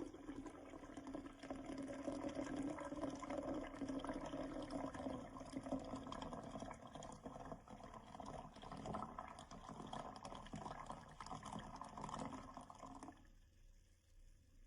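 Water poured in a steady stream into a glass French press, stopping abruptly about thirteen seconds in.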